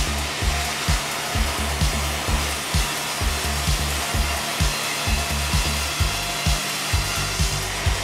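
Sawmill band saw running steadily with a loud whir but not yet cutting, under background music with a bass beat about twice a second.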